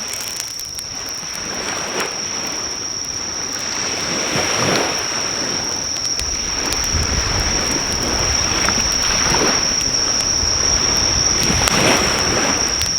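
Sea waves washing onto the shore, swelling and fading every few seconds, under a steady high-pitched insect drone. Faint scattered crackles from a driftwood campfire, and a low wind rumble on the microphone from about halfway.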